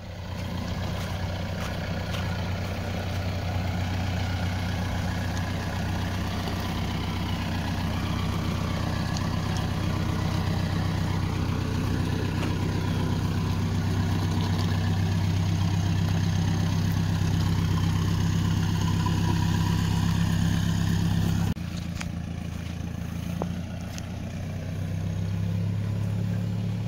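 Vehicle engine running steadily under load while towing through mud, getting slightly louder, then dropping suddenly to a quieter, lower running about 21 seconds in as the throttle comes off.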